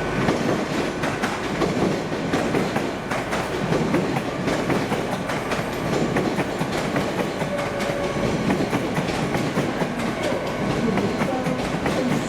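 A train moving through a station at steady speed, its wheels clicking rapidly over rail joints and pointwork.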